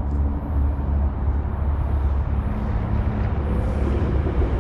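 Trinity Railway Express commuter train approaching over the steel railway bridge: a steady low diesel-locomotive rumble.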